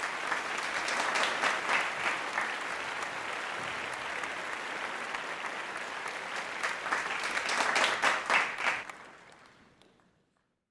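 Applause: dense clapping that swells twice, then fades out to silence about nine seconds in.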